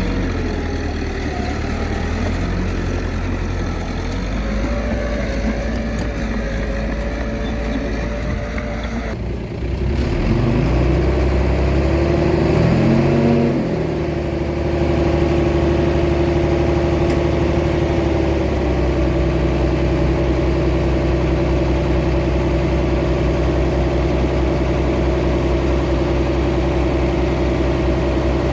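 Heavy earthmoving machine's diesel engine running steadily. Between about ten and fourteen seconds in it revs up and back down, then settles to an even drone.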